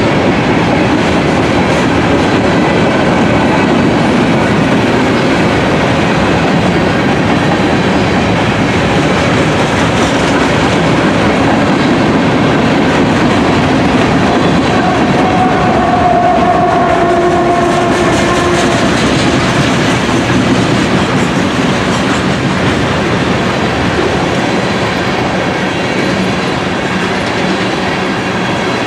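Train rolling past, a steady loud rush of wheel-on-rail noise. A brief tone sounds about halfway through, and the noise eases slightly near the end.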